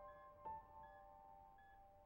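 Soft, quiet piano background music: held notes ringing and fading, with a new note struck about half a second in and faint high notes repeating.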